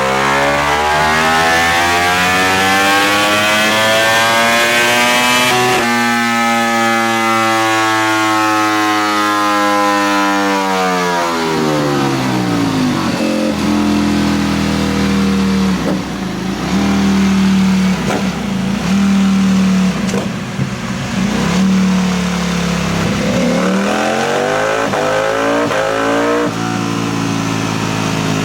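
2021 Ducati V4 motorcycle engine breathing through an aftermarket CS Racing exhaust, revving hard. The revs climb, drop suddenly about five and a half seconds in as at a gear change, and climb again. They then fall away to hover around a steady speed with small blips, and rise once more near the end.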